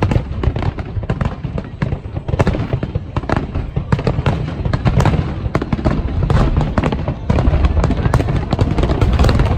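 Fireworks going off in a dense, rapid barrage: many sharp cracks over a continuous low rumble of shell bursts.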